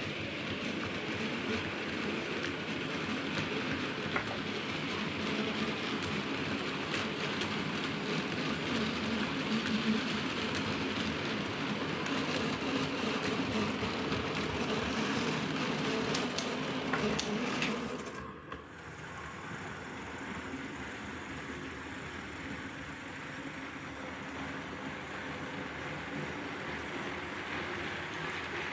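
Model trains running on the layout: a steady hum and rattle of their motors and wheels on the track. The sound drops sharply about 18 seconds in, then carries on a little quieter.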